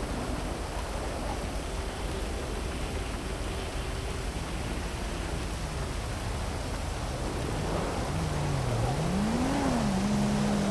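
Heavy rain falling steadily over city traffic. In the last few seconds a passing vehicle's engine note dips, rises and falls as it grows a little louder.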